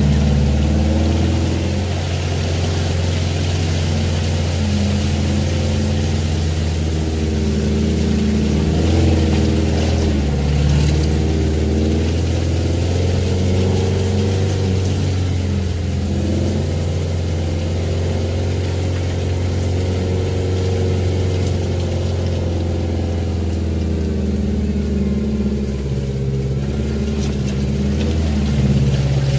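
Off-road 4x4's engine running at low revs as it crawls along a muddy dirt track, heard from inside the cab. The engine note shifts a little as the vehicle works over the ruts, and it rises slightly near the end.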